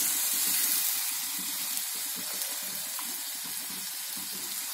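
Poppy-seed paste frying in mustard oil in a pan over a low flame, a steady soft sizzle as it is stirred with a wooden spatula. This is the stage where the paste is cooked until its raw smell goes.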